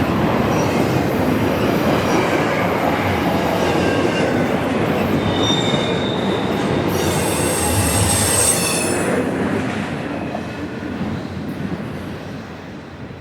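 Intermodal freight train's cars rolling past at close range, with rail noise and wheels squealing in thin high tones between about five and nine seconds in. The sound then fades steadily toward the end as the train moves off.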